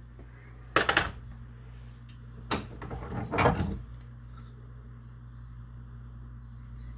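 Workshop handling noises at a bench vise: a sharp knock about a second in, another at about two and a half seconds, and a short scraping clatter soon after, then only a low steady hum.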